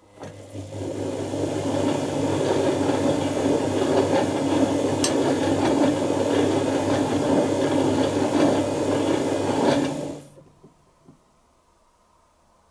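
Dyson Contrarotator CR01 washing machine in its wash cycle: the motor turns the contra-rotating drums for about ten seconds with a steady low hum, the wet load tumbling and sloshing, then the drums stop and the machine goes quiet.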